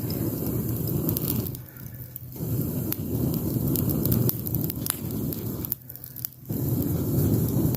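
Wood fire burning, with scattered sharp crackles and pops over a low rushing noise that drops away briefly twice.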